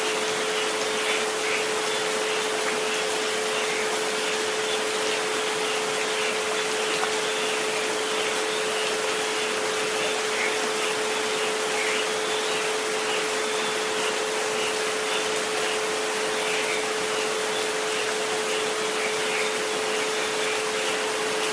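Two steady pure tones at 432 Hz and 528 Hz held together, over a steady hiss of falling rain.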